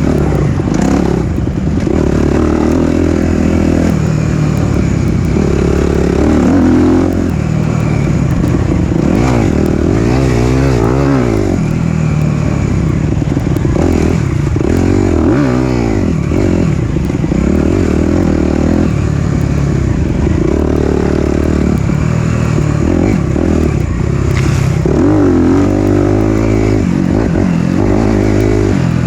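Single-cylinder four-stroke dirt bike engine being ridden hard, its pitch repeatedly climbing and dropping as the rider accelerates, shifts and backs off the throttle.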